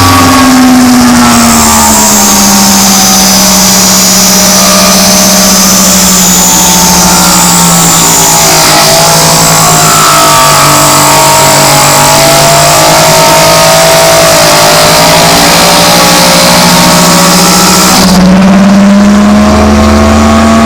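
Small lathe running while a brass pulley is turned. The motor note sinks over the first few seconds, holds low, and climbs back near the end, over a steady high hiss.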